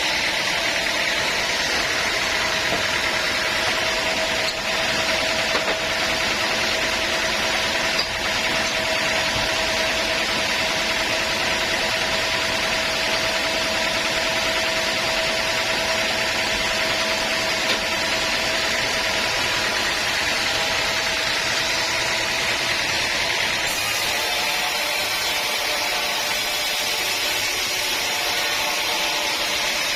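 Sawmill saw running steadily with a constant whine; about 24 seconds in the sound changes and the whine fades.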